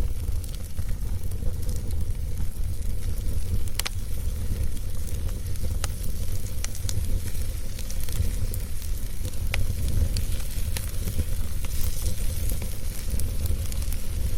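Wood fire burning with a steady low roar, dotted with scattered sharp crackles and pops.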